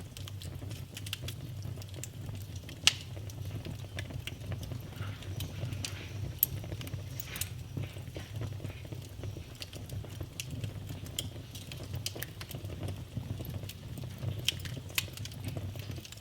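Wood fire burning in a fireplace, crackling with scattered irregular pops over a steady low rumble of the flames; a sharp pop about three seconds in and another about six and a half seconds in stand out.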